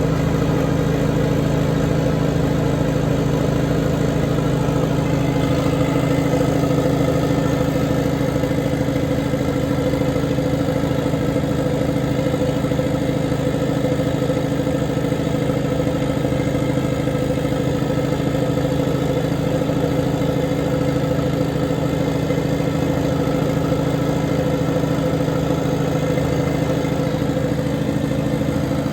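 Heavy equipment engine running steadily at a constant speed, with no revving or load changes.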